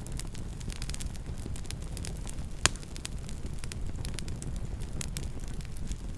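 Campfire burning: scattered crackles over a steady low rumble, with one loud pop about two and a half seconds in.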